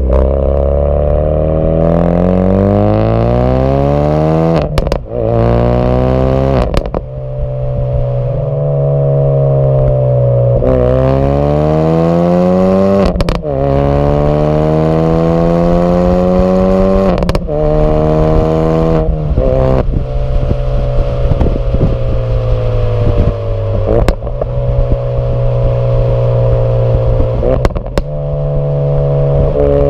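2016 Ford Focus RS's 2.3-litre turbocharged four-cylinder through an HG Motorsport EGO-X cat-back exhaust, pulling hard through the gears: the pitch climbs several times and drops back at each upshift. Each shift brings a sharp crack.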